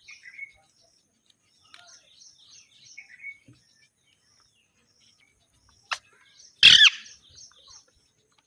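Green parakeets chirping in rows of quick, short, high twitters, with a few lower calls; about six and a half seconds in one gives a loud harsh squawk, just after a sharp click.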